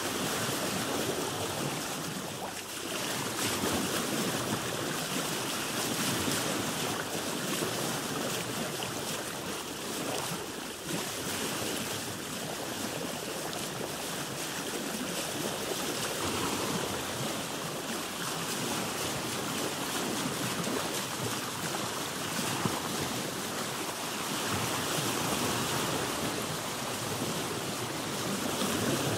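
Ocean waves washing around a boat: a continuous rushing wash of sea water that swells and eases every few seconds.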